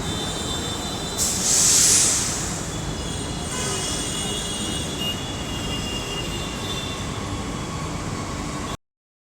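Train running on rails, metal wheels squealing in steady high tones, with a loud hiss about a second in lasting about a second. The sound cuts off suddenly near the end.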